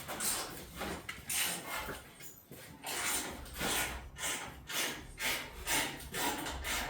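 Someone rummaging through a tool drawer for a socket: a string of short metal clatters and scrapes, about two a second.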